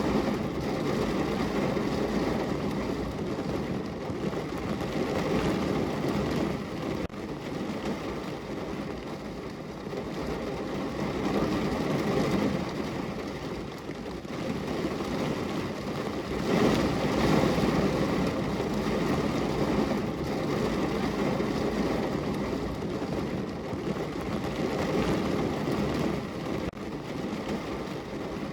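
Heavy rain falling on a car's roof and windows, heard from inside the car: a dense, steady patter that swells and eases several times, loudest a little past the middle.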